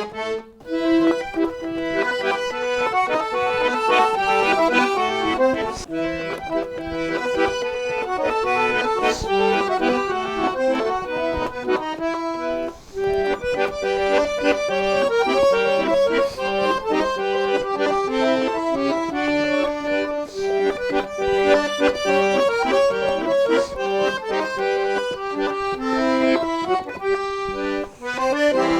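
Accordion music: a traditional-style tune of many short, quickly changing notes.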